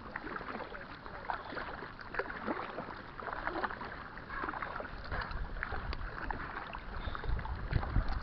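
Kayak paddle strokes on a creek: water splashing and dripping off the blades, heard as many small splashes and drips. A low rumble on the microphone builds near the end.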